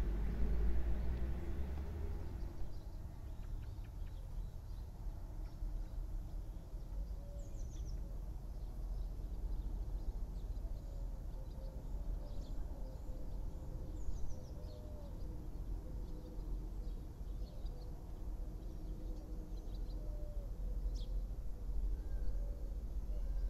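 Outdoor country ambience: a low steady rumble with faint, scattered bird chirps and short calls throughout.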